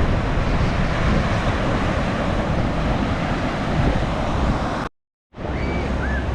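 Strong wind buffeting the microphone over rough surf: a steady rushing noise with heavy low rumble. It cuts out completely for a moment near the end, then resumes.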